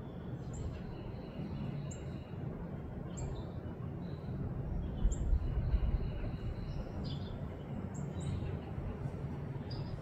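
Small birds giving short, high chirps about once a second over a steady low background rumble, with a few louder low bumps around the middle.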